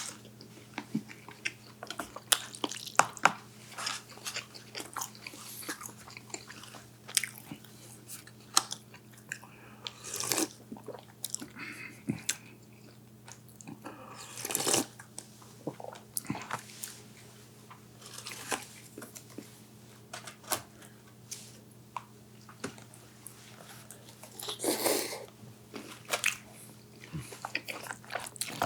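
Close-up eating sounds: crunchy bites and chewing of battered Korean-style sweet and sour pork, in irregular clicks and short crunchy bursts, over a faint steady low hum.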